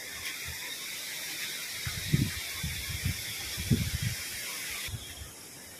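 Rain falling as a steady hiss that cuts off abruptly about five seconds in, with a few low thuds of footsteps on concrete steps.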